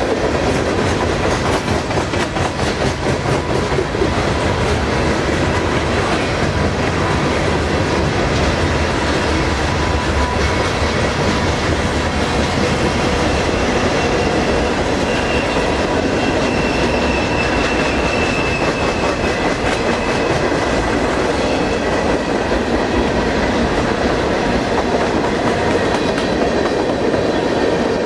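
Freight cars of a mixed freight train (refrigerator cars, covered hoppers, tank cars) rolling past close by at a steady pace, with continuous wheel-on-rail rumble and clatter.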